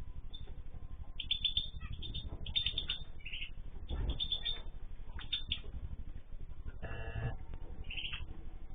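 Small cage birds chirping and tweeting in short repeated bursts, with a longer, lower call in several tones about seven seconds in.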